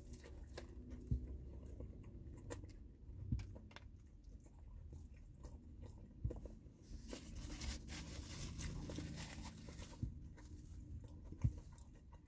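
A person chewing a mouthful of crispy fried chicken sandwich: faint crunching and chewing with scattered small clicks, and a denser crunchy stretch past the middle.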